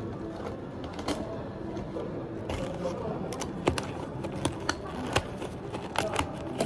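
Irregular light clicks and knocks of small hard objects being handled, coming more thickly from about halfway through, over a steady room hum.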